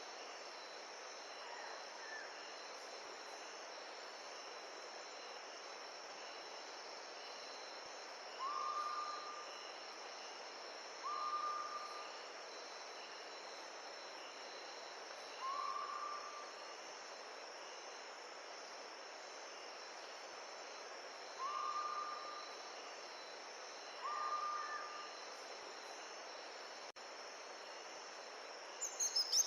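Steady rush of a forest stream with a thin, steady high chirring of insects over it. A bird gives a single short whistled note five times, a few seconds apart, and a brighter chirping bird song starts right at the end.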